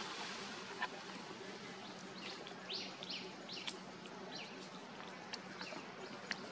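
Forest ambience: a bird gives a quick run of short, high chirps, each falling in pitch, about two to four seconds in, over a faint steady hum, with a few sharp clicks scattered through.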